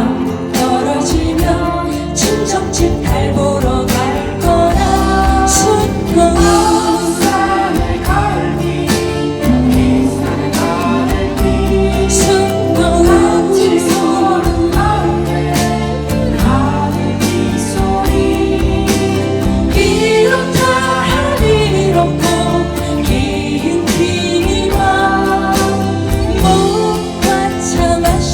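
A song performed live: singing over instrumental accompaniment.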